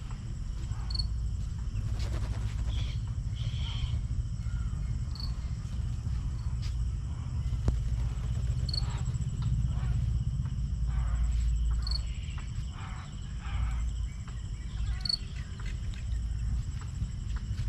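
Outdoor nature ambience: a steady high insect drone with a short, high chirp repeating about every three to four seconds, over a low rumble of wind on the microphone.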